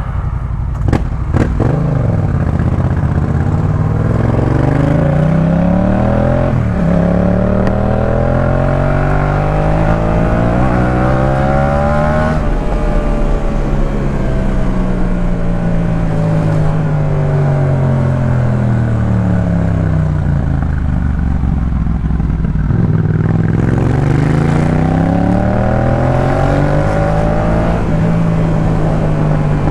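Yamaha MT-07's 689 cc crossplane parallel-twin engine through a Jeskap K4 full exhaust, under way: the revs climb with a break about seven seconds in, as at a gear change, and keep rising until about twelve seconds in. They then fall away for about ten seconds and climb again near the end before levelling off. A couple of sharp clicks sound about a second in.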